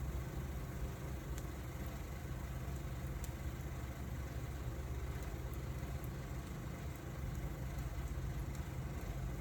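Wood fire burning in a fire pit, with a few faint crackles over a steady low rumble.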